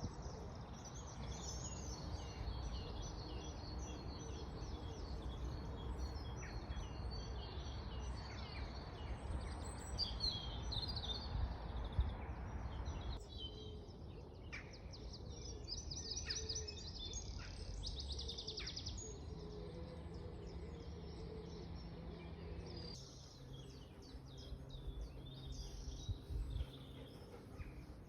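Several songbirds singing with chirps and trills, including a fast, evenly repeated trill past the middle. Beneath them is a low steady rumble of background noise that drops away abruptly about halfway through.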